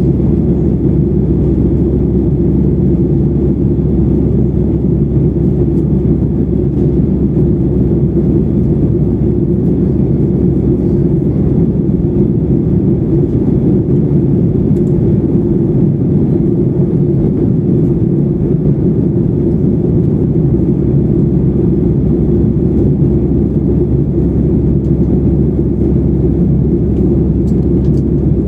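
Steady, even cabin noise of a Boeing 737-800 in flight: the low rumble of its CFM56 engines and the airflow over the fuselage, with a faint high whine above it.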